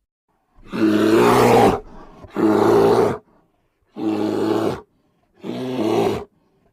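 A bear roaring: four deep, rough calls of about a second each, separated by short silences.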